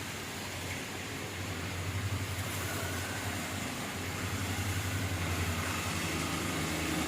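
Steady low hum of road vehicles under a constant hiss, with no distinct events.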